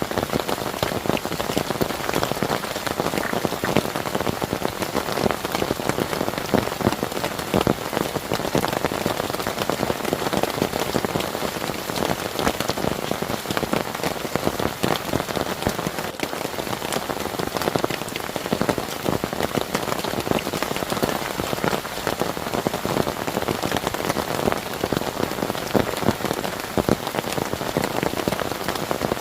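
Heavy rain falling steadily, the many separate drop hits on a surface blending into a dense, even patter.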